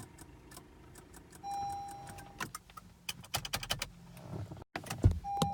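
2015 Acura TLX warning beep sounding once for about a second amid scattered clicks and rattles. Near the end comes a dull thump, then the beep starts again. The car will not crank despite a good battery, pointing to an electrical fault.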